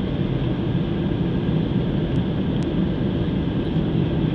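Steady engine and airflow noise inside an airliner cabin during the landing approach.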